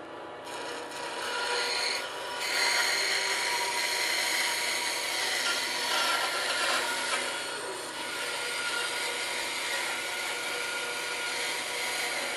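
Bandsaw blade cutting into a block of 4x4 wood: a steady rasping hiss over the hum of the running saw, the cut beginning about half a second in.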